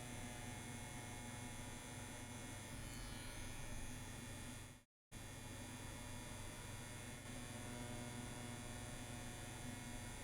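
CNC WE tattoo machine buzzing steadily while running at about 8 volts, lining on practice skin. The buzz cuts out completely for a moment about halfway through, then carries on.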